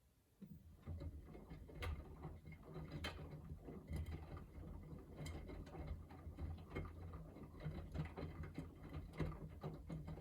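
Miele W3985 front-loading washing machine drum turning during the final rinse: the motor runs with a low, steady hum under irregular clicks and knocks from the tumbling wet load. It starts about half a second in.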